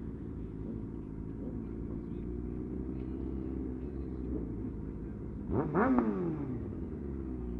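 Superbike engine running steadily on the move, with a brief sharp rev that rises and falls in pitch about five and a half seconds in.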